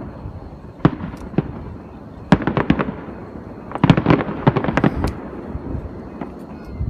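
Fireworks going off: two single cracks, then two quick clusters of rapid cracks about two and a half and four seconds in.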